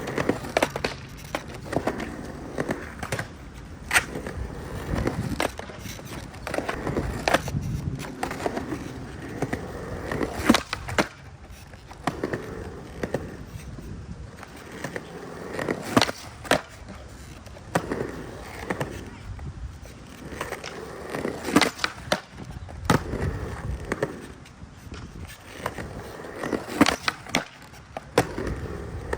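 Skateboard wheels rolling over concrete transition, with a sharp clack every few seconds as the board and trucks strike the coping during rock-and-roll and blunt-rock tricks.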